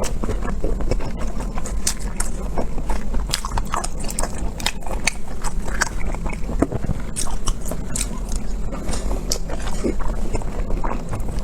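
Close-miked eating: irregular biting and chewing with many short wet mouth clicks, over a steady low hum.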